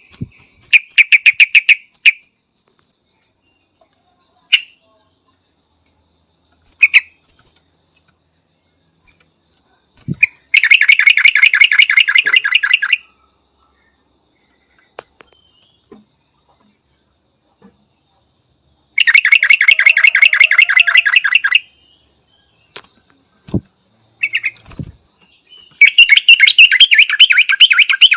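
Yellow-vented bulbul calling in bursts of rapid, evenly repeated chattering notes. There is a short burst about a second in and a few single notes, then three longer runs of two to three seconds each.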